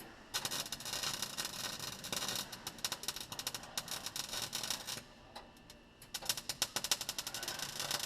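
Welding arc crackling and spitting on a rusted Jeep frame, in two runs: one of about five seconds, then a second starting about six seconds in. The uneven spatter goes with welding on very dirty metal.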